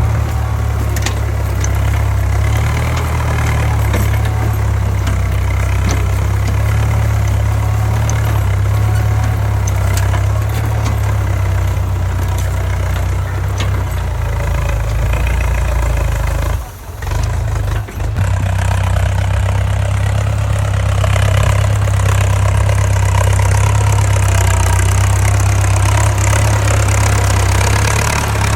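Tractor engine running steadily with a strong low drone. The sound drops out briefly twice, a little past halfway.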